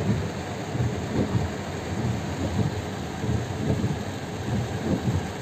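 Heavy rain falling on a car's roof and windscreen, heard from inside the cabin: a steady hiss with uneven low thuds several times a second.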